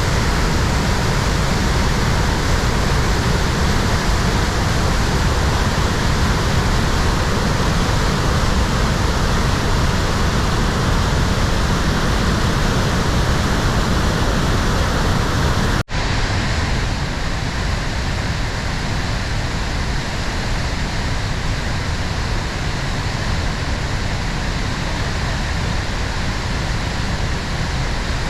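Steady roar of a waterfall's rushing water. About two-thirds of the way through it breaks off sharply and resumes a little quieter and duller.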